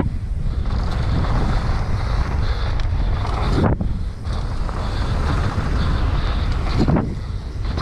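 Wind buffeting the microphone of a camera riding on a mountain bike at speed down a muddy trail, over a steady low rumble from the ride. The noise drops off briefly twice, about halfway and near the end.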